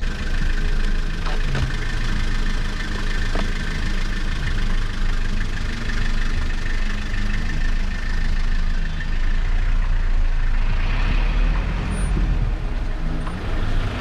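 Steady running noise of a moving road vehicle: a low rumble with hiss that stays even throughout.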